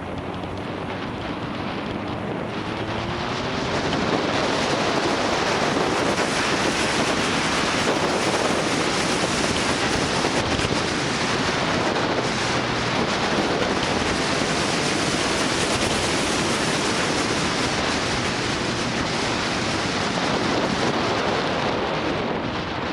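Motorcycle riding on an open road: the engine note rises as it accelerates in the first few seconds, then a steady rush of wind over the microphone at speed covers it, easing a little near the end.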